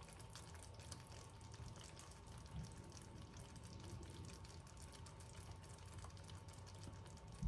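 Very faint sizzling of a tomato, cashew and chicken curry in a pot on a low flame, with a faint steady hum and a soft knock at the very end.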